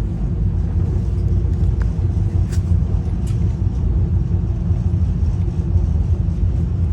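Steady low rumble of a moving passenger railcar heard from inside: wheel-on-rail and car-body ride noise, with two faint clicks about two and a half and three and a half seconds in.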